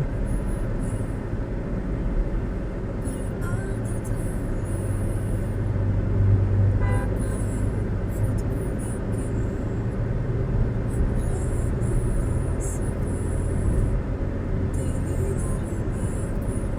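Vehicle travelling on a highway: a steady low road-and-engine rumble with a constant haze of tyre noise.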